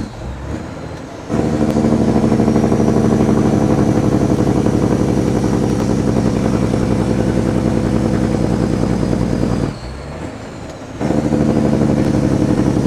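Kenworth W900's diesel engine pulling loudly through its pipes under load, dropping off briefly at the start and again about ten seconds in, as on a gear shift, then coming back on strong.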